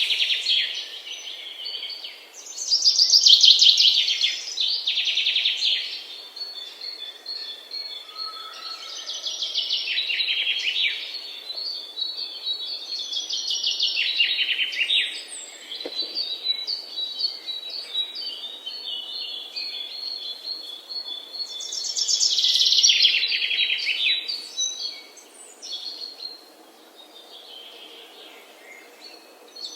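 Songbirds singing: a series of fast trills, each falling in pitch, every few seconds, with a thin high repeated note between them.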